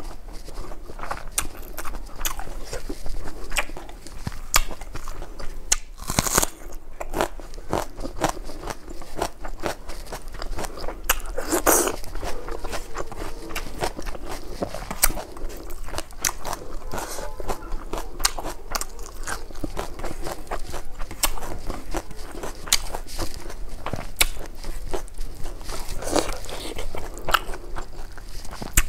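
A person chewing and crunching food with the mouth: a continuous run of short, sharp, wet clicks and smacks, with a few louder bites scattered through.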